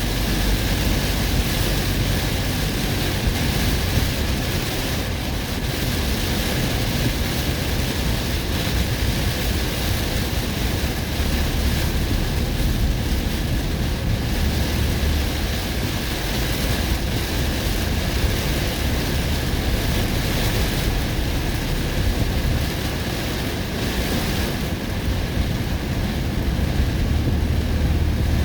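Heavy summer-storm wind and rain: a loud, steady rushing noise with a strong low rumble of wind buffeting the microphone.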